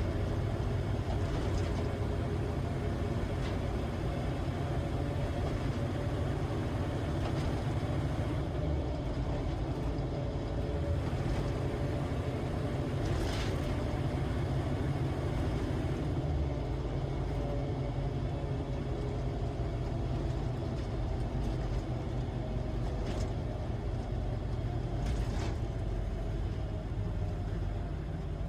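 Humvee's V8 diesel engine and drivetrain running steadily while driving, with a faint whine and a few brief clicks or rattles.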